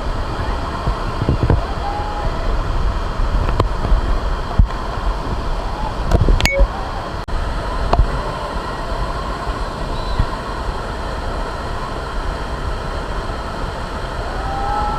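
River water rushing steadily, with low rumbling and a few sharp knocks in the first half.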